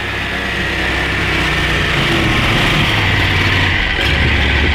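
30-horsepower boat motor running under way, getting louder over the first second or so as the boat pulls off, then steady.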